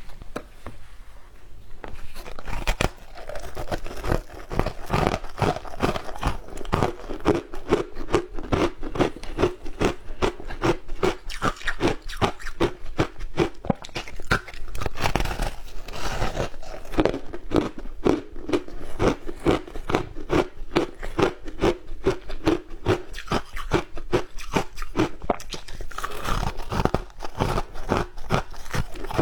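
Matcha shaved ice being bitten and chewed: a quick, continuous run of crisp crunches, lighter for the first couple of seconds.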